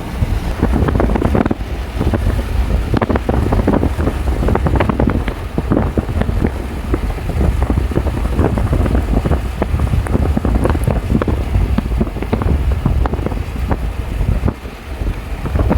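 Strong storm wind buffeting the microphone: a loud, ragged low rumble with irregular gusty crackles that eases briefly near the end.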